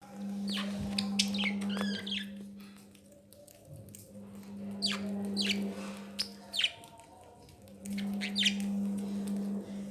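Pet budgerigars chirping in quick calls that fall sharply in pitch, in three bunches. A steady low hum of unknown source starts and stops three times underneath.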